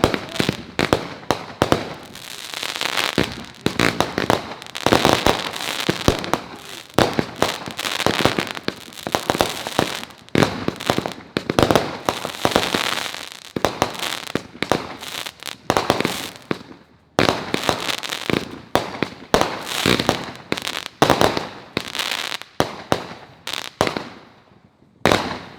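Fireworks going off in rapid succession: a dense run of sharp bangs mixed with crackling, easing off briefly about two-thirds of the way through and again just before the end.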